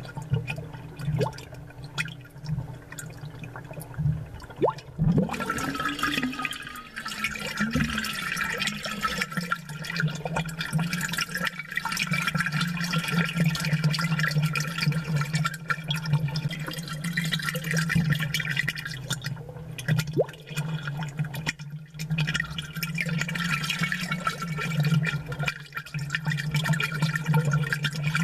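Aquarium water bubbling and gurgling, amplified, over a steady low hum from the tank's pump, with small clicks and pops of bursting bubbles.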